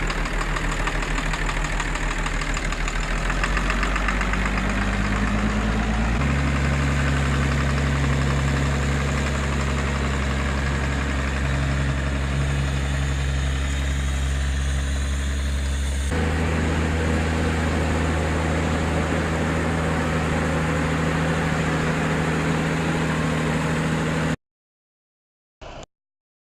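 Tractor engine running steadily at a constant speed. The engine sound changes abruptly twice, then cuts off near the end.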